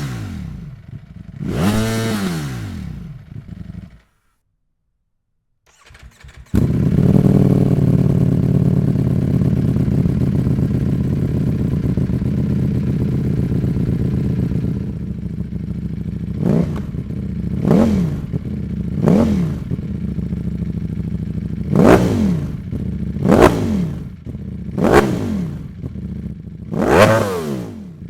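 Ducati V4 sport motorcycle with a CS Racing aftermarket exhaust. It revs twice in short blips, falls silent for about two seconds, then starts and settles into a steady idle that drops to a lower idle about halfway through. From there the throttle is blipped sharply about every one to two seconds, each rev rising and falling quickly.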